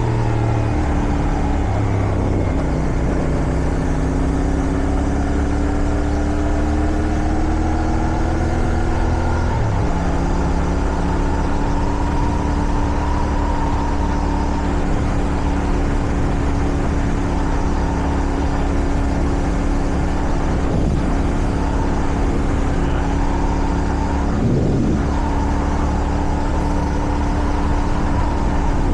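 Motorcycle engine running on the road, its pitch easing down over the first ten seconds, then changing near ten seconds and holding steady at cruise. Wind rushes over the microphone throughout.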